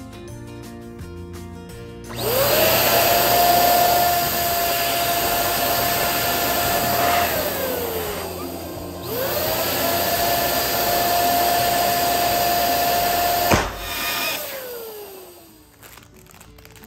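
Electric balloon pump running in two stretches of about five seconds each. Its motor whine climbs quickly to a steady pitch, then falls away as the motor spins down after each stretch. A single sharp snap comes near the end of the second stretch.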